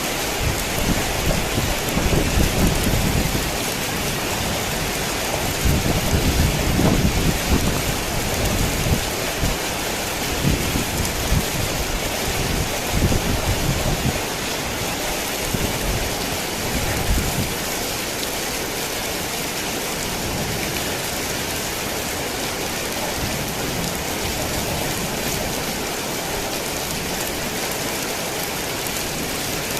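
Heavy rain falling steadily, with low rolling rumbles of thunder through the first half that die away, leaving the rain alone.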